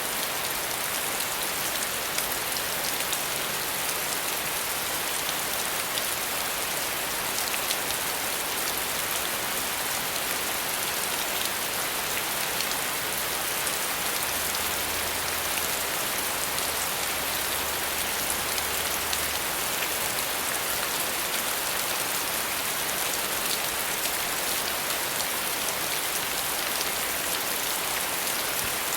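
Steady, even rain falling, its drops pattering on a surface with faint scattered individual drop ticks.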